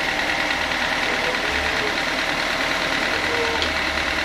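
Sawmill saw machinery running steadily: an even mechanical drone with a steady high whine.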